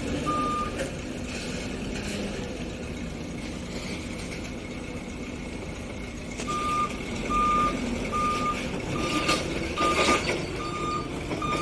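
Forklift reversing alarm beeping: one beep near the start, then a single-tone beep repeating about every 0.7 seconds from about six and a half seconds in, over a steady engine hum with a few brief knocks near the end.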